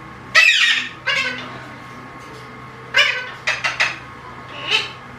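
Alexandrine parakeet giving a run of pitched, meow-like calls: a falling call and a shorter one in the first second and a half, four quick calls about three seconds in, and one more near the end.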